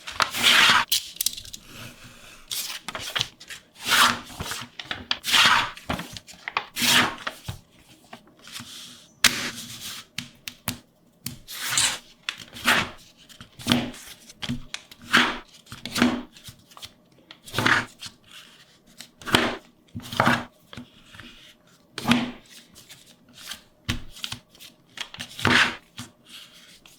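Paper being handled and worked by hand: a series of short rustling, rubbing strokes, roughly one every second or so.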